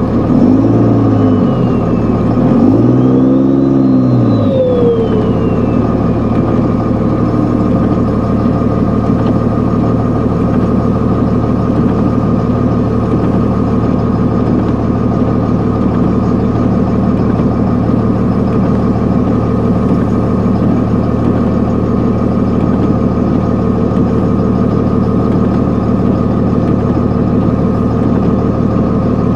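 Tuned Cummins turbo-diesel in a 2001 Dodge Ram 2500, revving up and back down twice in the first few seconds, the second time with a high whistle rising and falling over it. It then runs at a steady speed, working the truck through deep snow with a plow.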